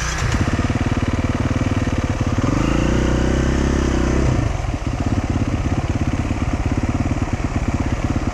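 Dual-sport motorcycle engine running with an even pulsing beat, revving up about two and a half seconds in and dropping back to a lower, steady speed a couple of seconds later.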